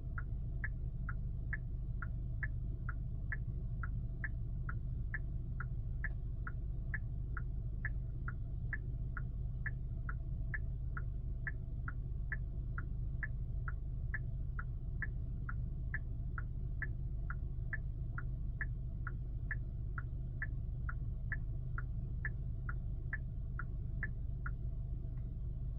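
Genesis GV80 turn-signal indicator sound ticking in an even tick-tock, about two to three clicks a second, over a steady low hum. The owner calls the sound uneven and counts it among the car's audio faults, along with cutting-out phone and radio sound.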